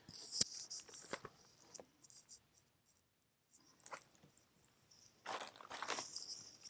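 Light rustling and scattered clicks from handling a plastic laptop case and its packaging, with a denser stretch of rustling near the end.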